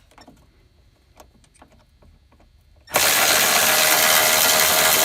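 A few light clicks of tool handling, then about three seconds in a Milwaukee M12 cordless ratchet starts and runs steadily, spinning out a 10 mm bolt from the Prius's lower cowl panel.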